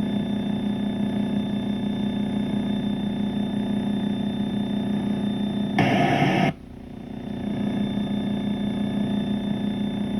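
Slingsby T67 Firefly's engine and propeller droning steadily in cruise, heard through the cockpit intercom. About six seconds in, a brief loud rush of noise cuts in; then the drone drops away and swells back up.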